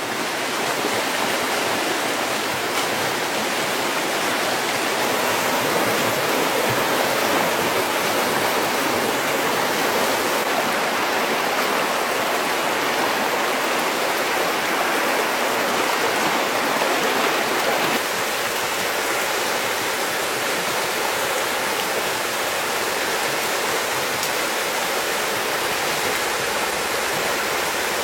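Steady rushing of water, a dense even noise that eases slightly about eighteen seconds in.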